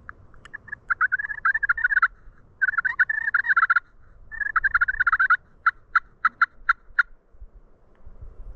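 Turkey calling: three bursts of rapid, chattering notes, each about a second long, then a run of six sharp single notes evenly spaced about a quarter second apart.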